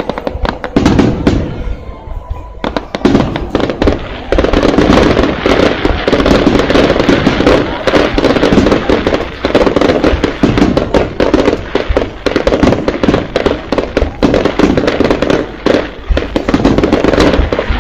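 Fireworks crackling and banging in rapid succession. The sound is sparser at first, then thickens into a dense, continuous barrage about four seconds in.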